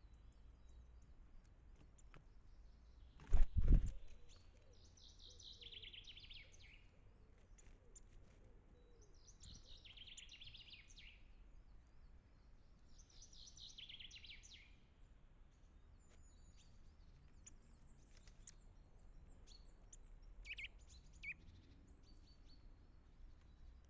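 Wild songbird singing the same short phrase three times, about four seconds apart, with short chips and two sharp calls near the end. A loud double knock close to the microphone a little over three seconds in is the loudest sound.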